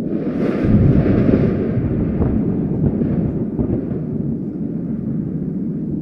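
Thunder: a crack about a third of a second in that rolls into a long, low rumble, slowly fading over several seconds, over a steady background of wind.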